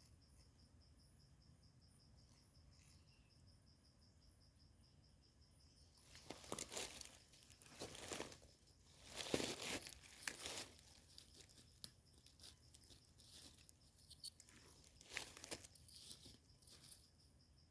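Rustling and crunching of dry ground litter being disturbed in several bursts from about six seconds in, loudest around the middle. Under it runs a steady, pulsing insect trill, which is clear before the rustling starts.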